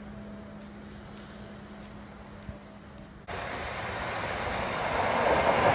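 Quiet platform background with a faint steady hum, then, starting suddenly a little over three seconds in, an electric commuter train approaching, its rumble growing steadily louder.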